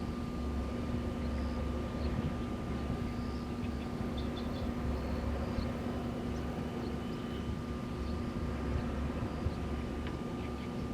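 Wind blowing steadily and gusting at wind turbines, under a continuous machine hum with a fainter higher tone from the turbines' drive.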